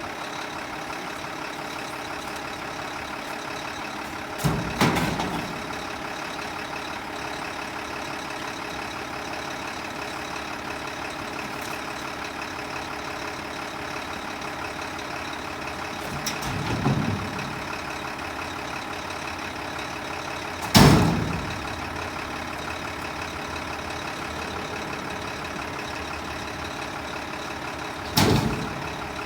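Diesel engine of a Mack front-load garbage truck idling steadily, broken by four loud bangs spread through the stretch, the loudest about two-thirds of the way in.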